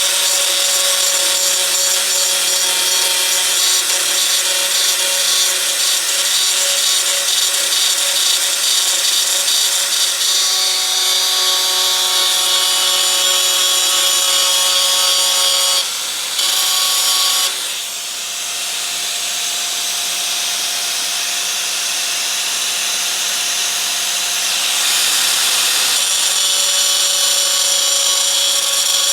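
Electric angle grinder grinding sheet-metal bodywork: a steady motor whine over a harsh, hissing scrape. It breaks off briefly about sixteen seconds in, runs a little quieter for several seconds, then comes back to full strength.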